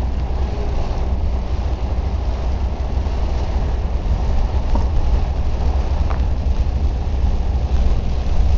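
Heard from inside a car's cabin in heavy rain: a steady low rumble with an even hiss of rain on the car.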